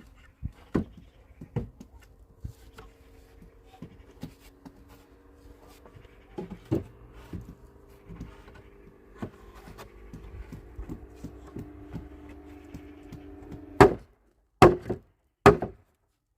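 Irregular knocks and taps of work with tools or wood over a faint steady hum, then three loud sharp strikes less than a second apart near the end.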